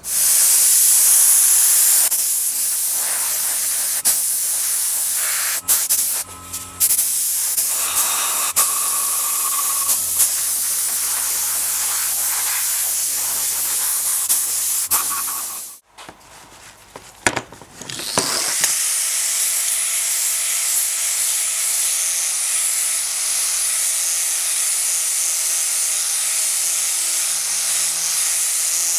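Compressed air hissing steadily from an air tool. It cuts off abruptly about sixteen seconds in, then comes a few short blasts, and a second steady hiss with a faint whine starts a couple of seconds later.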